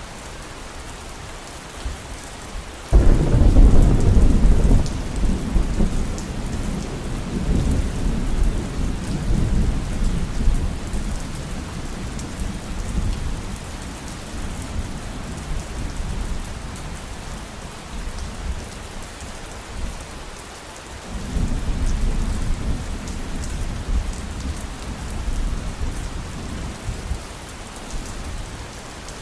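Steady heavy rain with two long rolls of thunder: a sudden low rumble about three seconds in that fades slowly, and another rising about two-thirds of the way through.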